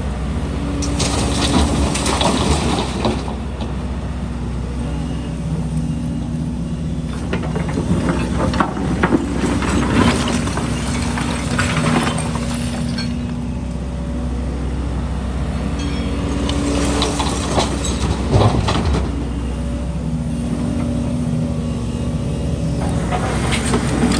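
Excavator's diesel engine running steadily under load, with repeated spells of scraping and clattering as concrete rubble is worked and dropped, about four times.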